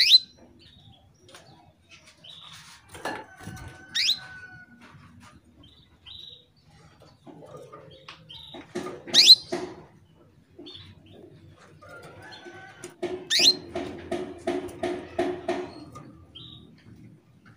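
Female canary in breeding condition calling to a male, with short chirps that sweep sharply upward, four times at gaps of a few seconds. A lower, rapid pulsing series runs for about three seconds near the end.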